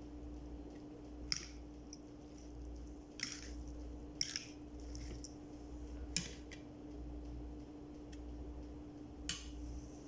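A person eating close to the microphone: wet chewing and mouth sounds, with about five short sharp smacks or clicks spread through, over a steady low hum.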